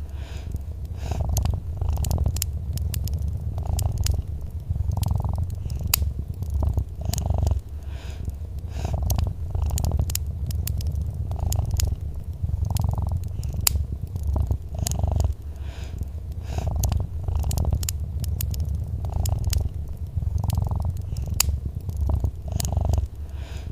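Domestic cat purring, a deep continuous rumble that swells and eases with each breath about every second and a half. Over it a wood fire crackles with scattered sharp pops.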